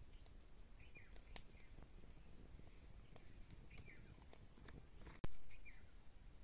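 Faint outdoor background with a bird giving a few short, falling chirps now and then, and scattered light clicks. About five seconds in, a sudden louder sound starts and fades over about a second.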